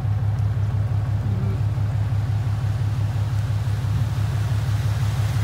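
Vehicle engine running steadily, a low rumble with a fast, even pulse.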